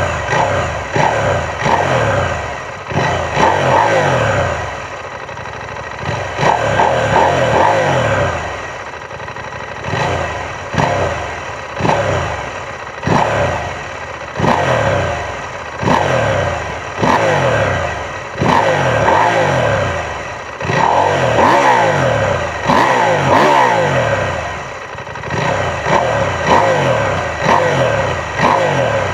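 KTM 790 Adventure S parallel-twin engine through its stock exhaust, revved in quick repeated throttle blips. Each blip rises sharply and falls back, in bursts of several with short lulls near idle between them.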